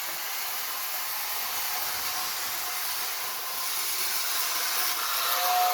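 Lionel 2046 O-gauge steam locomotive running forward with a train, giving a steady whirring hiss of motor and wheels on the track. Near the end, the whistle in the 2046W tender starts to blow a steady chord of several notes.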